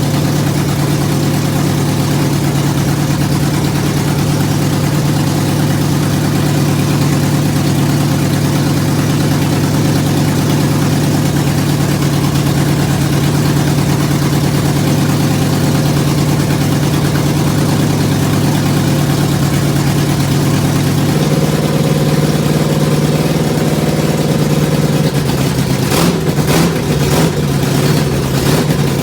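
Freshly rebuilt Oldsmobile 455 big-block V8 running steadily during its first start-up. About 21 seconds in the engine note steps up a little, and near the end a few sharp clicks sound over it.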